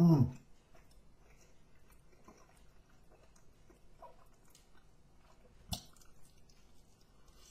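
Quiet chewing and mouth sounds of a person eating chicken wings close to the microphone, with a single sharp click about six seconds in as he bites into a wing. A hummed note fades out at the very start.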